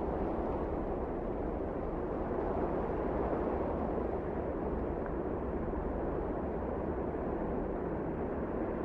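Wind blowing steadily: an even, low rushing with no gusts or breaks.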